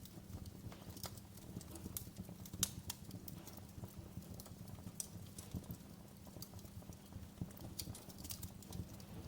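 Wood fire crackling in a fireplace: irregular sharp pops and snaps over a low steady rumble, the loudest pop a little under three seconds in.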